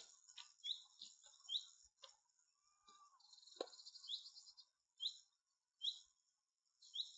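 A small songbird calling: a short high chirp repeated about once a second, with a brief buzzy trill and a single sharp click about halfway through.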